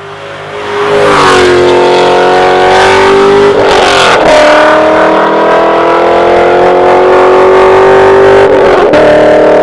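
V8 car engine revving hard. The note swells up over the first second, then holds loud with a rising pitch. It breaks briefly and steps up in pitch about four seconds in, and again near the end.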